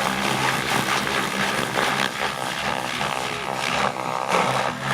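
Radio-controlled 3D aerobatic helicopter flying, its rotor and motor making a steady drone whose pitch shifts as it manoeuvres, most clearly in the second half.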